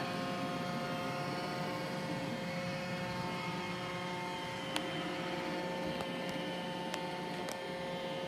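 Roomba j7+ robot vacuum running: a steady motor and brush whine with several fixed tones, broken by a few short ticks in the second half.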